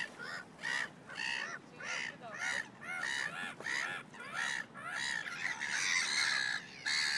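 A bird cawing over and over, short harsh calls about three a second.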